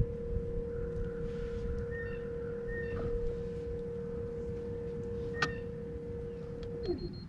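Bixpy electric kayak motor giving a steady whine that drops in pitch and stops about seven seconds in, as the motor is throttled down. A few short high chirps and a sharp click sound over it.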